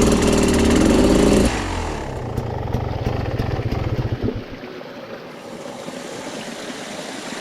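Dirt bike engine running hard on the throttle, then easing off about a second and a half in. The engine sound fades out a few seconds later, leaving a steady hiss.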